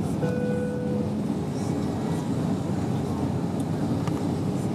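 Steady cabin roar of an Airbus A320-232 on approach, from its airflow and IAE V2500 engines, heard from inside at a window seat. A short pitched tone sounds about a quarter of a second in.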